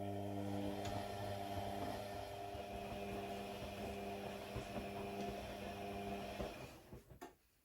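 A small electric motor running with a steady hum for about seven seconds, then winding down and stopping, with a click or two as it stops.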